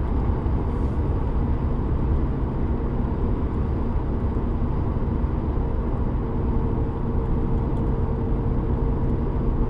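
In-cabin driving noise of a 2007 VW Golf GT TDI with the 2.0-litre BKD diesel under way: a steady engine drone and road rumble, with wind noise from a window gap. A steady hum joins in about six seconds in, with the engine near the speed where the car hums and vibrates; the owner suspects the dual-mass flywheel.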